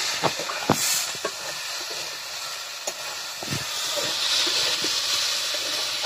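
Potato and ivy gourd (kundri) strips sizzling as they are stir-fried in a metal wok, with a steady hiss of frying. A spatula scrapes and knocks against the pan with scattered clicks.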